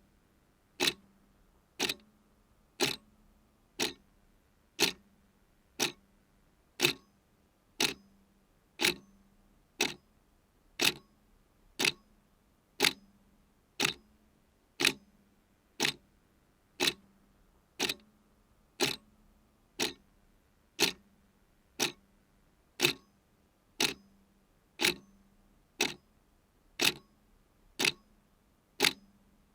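Clock ticking steadily at about one tick a second.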